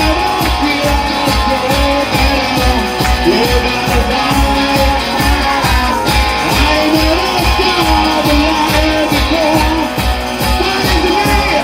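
Live blues-rock band playing: a bending lead guitar line over a steady drum beat.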